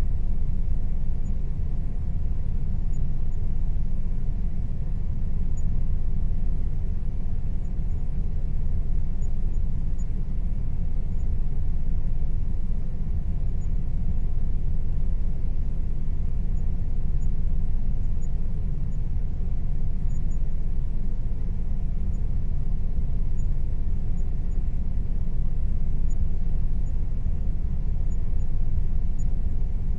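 Air conditioner running steadily: an even, low rumbling hum with a faint steady tone above it.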